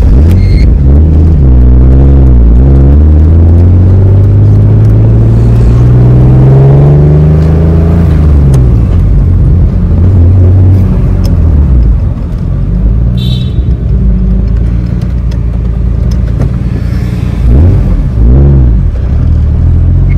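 Turbocharged BMW S52 straight-six of an E36 M3 running under load from inside the cabin: it pulls through a gear with its pitch climbing for several seconds, then drops back, with another short rise and fall near the end.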